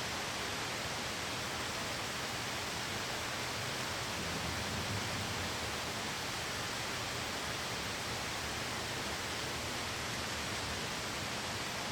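Steady heavy rain, an even hiss with no separate drops or crackles standing out.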